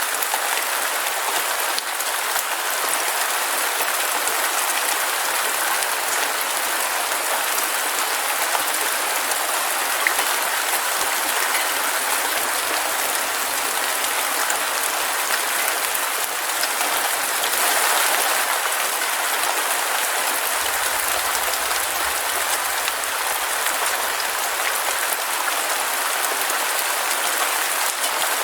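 Heavy rain falling steadily, a dense even hiss of drops with little low end, swelling briefly about two-thirds of the way through.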